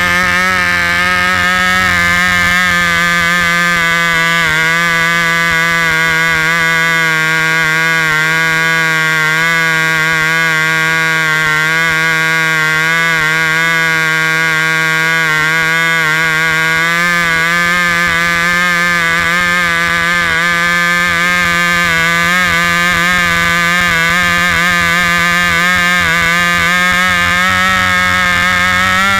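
Cox .049 model glow engine, fitted with a muffler, running steadily at high speed with a high buzzing whine that wavers slightly in pitch.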